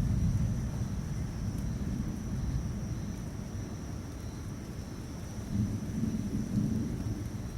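Rolling thunder, a low rumble that fades over the first few seconds and swells again about five and a half seconds in, over the steady hiss of rain.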